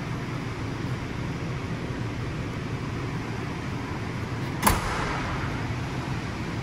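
Ford Ranger's 2.0 L bi-turbo four-cylinder diesel idling steadily, with one sharp knock about four and a half seconds in.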